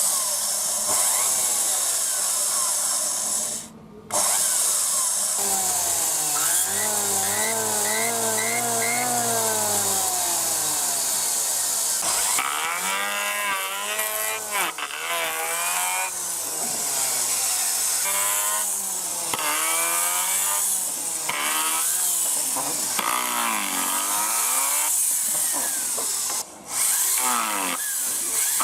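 Electric hand planer running and cutting wood, its motor whine sagging and recovering again and again under the load of each pass, over a strong hiss. The sound drops out briefly twice.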